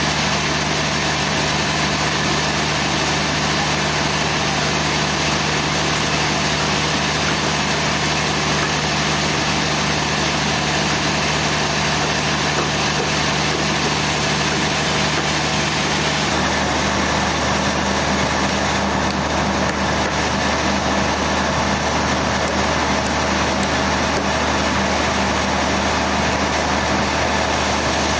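Sawmill machinery engine running steadily with a constant low hum. About two-thirds of the way through, its tone shifts abruptly to a deeper hum.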